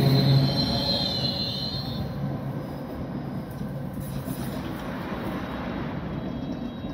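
Electric multiple-unit passenger train running past along the platform and away. Its wheels squeal high on the rails for about the first two seconds over a steady low hum, and the sound fades as the train recedes.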